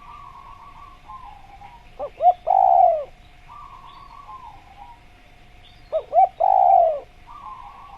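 Spotted dove (tekukur) cooing: two calls about four seconds apart, each two short notes followed by a longer falling coo. Fainter rippling notes sound between the calls.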